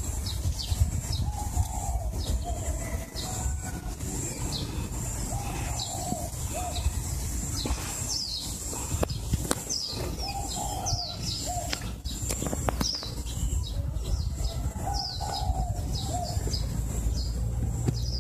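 Birds singing: short, quick falling chirps repeated again and again, with lower warbling calls between them. Under them run a steady high-pitched whine and a low rumble.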